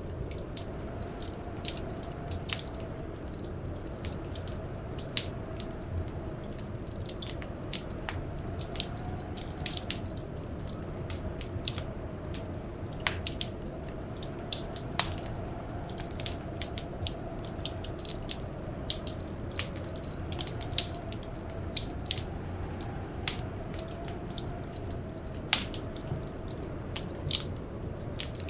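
Wood fire crackling in a fireplace: irregular sharp pops and snaps, several a second, over a low steady rumble. Underneath is a faint, slowly wavering howl of blizzard wind.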